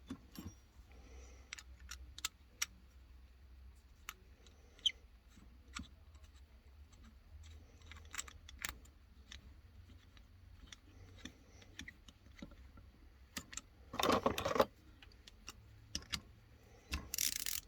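Small metal parts of a lawnmower carburetor clicking and clinking as they are handled and fitted, over a low steady hum. Two short, louder bursts of noise come near the end.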